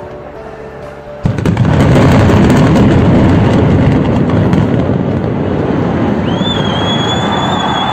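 Demolition charges firing about a second in, a sudden blast running into a long, loud rumble as the 19-storey apartment tower collapses in a controlled implosion. A high, steady whistle sounds over it near the end.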